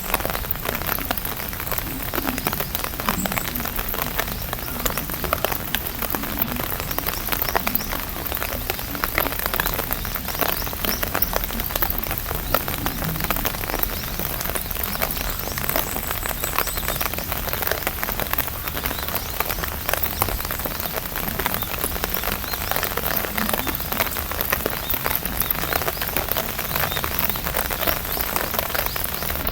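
Steady rain pattering on an umbrella canopy: a dense, even patter of many small drop hits.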